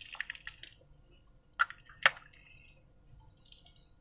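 Slime being handled with wet squishing clicks: a quick run of crackles at the start, then two sharp, louder clicks about half a second apart in the middle.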